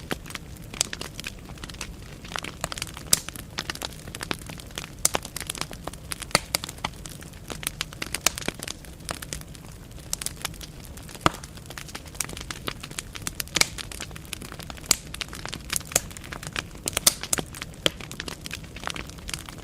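Wood fire burning in a fireplace: logs crackling and popping with many sharp, irregular snaps over a low, steady rumble of flame.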